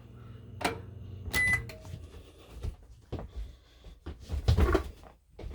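Microwave oven running on power from an inverter, a steady low hum, then a short beep about a second and a half in as the hum stops. Clicks and knocks follow.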